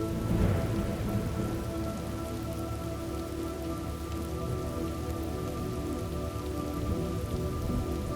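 Steady rain falling, with a roll of thunder about half a second in. Soft held tones drone underneath.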